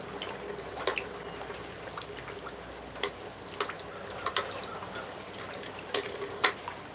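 Two Beyblade spinning tops whirring in a water-filled stadium, with about six sharp clicks as they strike each other.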